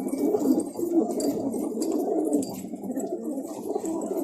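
Domestic pigeons cooing, several at once with overlapping coos. A male pigeon is courting among them.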